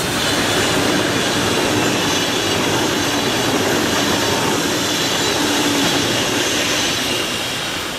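ICE high-speed train passing at speed: a steady loud rush of wheels on rail and air, easing off slightly near the end as it draws away.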